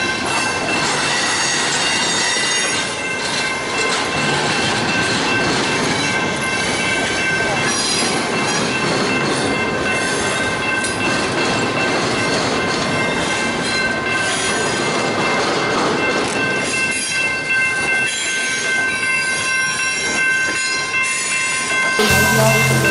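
Double-stack container train rolling past close by: a steady rumble of steel wheels on rail with a constant high-pitched squeal from the wheels. About a second before the end it cuts abruptly to music.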